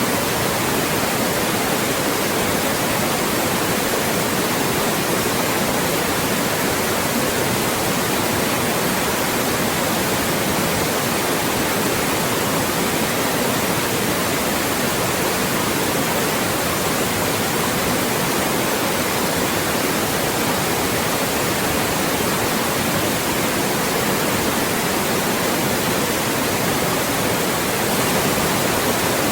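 Loud, steady white noise used for masking speech: an even, unbroken hiss spread across all pitches that never changes.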